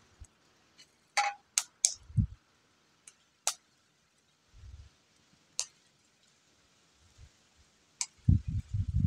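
Scattered sharp clicks and knocks at irregular intervals, with a few short low thumps and a quick run of dull low thumps starting near the end.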